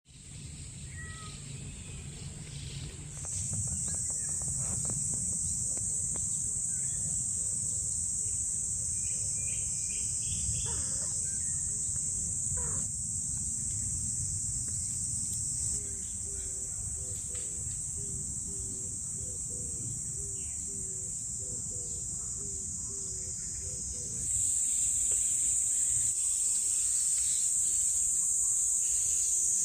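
A steady, high-pitched drone of insects in woodland, with a few short bird chirps and, in the second half, a run of low repeated notes. The level jumps up twice, about three seconds in and near the end.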